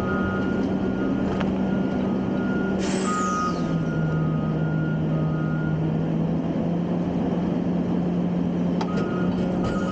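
Garbage trucks at a transfer station: a diesel engine running steadily, with a reversing alarm beeping repeatedly. About three seconds in there is a short, falling air-brake hiss, and the engine's pitch drops a little. The beeping stops past the middle and starts again near the end.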